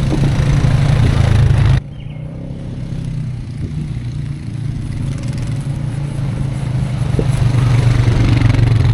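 A vehicle engine running steadily, with some clatter over it; the sound drops abruptly about two seconds in and then builds gradually.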